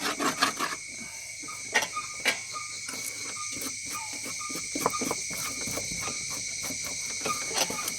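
A steady, high-pitched chorus of insects, with scattered scrapes and taps from hand work on the metal mower deck.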